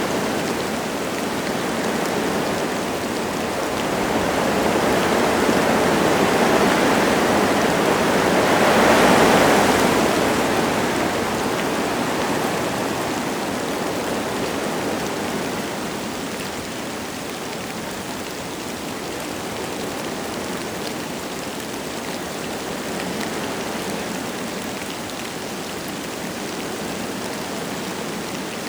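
Wind gusting through forest trees with light rain falling. A gust swells to its loudest about nine seconds in, then dies back to a steadier rush.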